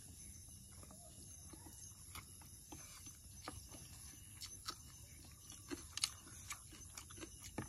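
Faint eating sounds of people chewing rice and chicken gravy by hand: scattered soft mouth clicks and lip smacks at an uneven pace, one sharper click about six seconds in.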